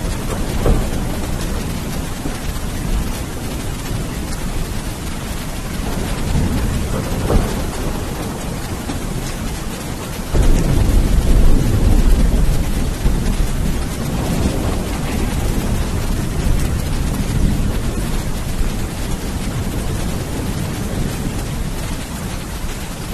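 Steady rain with low rumbles of thunder. About halfway through, a louder thunder rumble starts suddenly and fades over several seconds.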